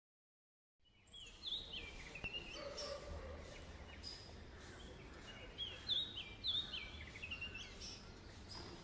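Oriental magpie-robin singing: two phrases of quick whistled notes stepping down in pitch, one about a second in and another around six seconds, with shorter high whistles between them. A steady low rumble of background noise runs underneath.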